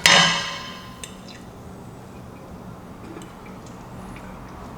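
Metal cookware clanks once with a ringing that fades over about a second, followed by a light tick, as cooked dumplings are taken out of the pot for plating.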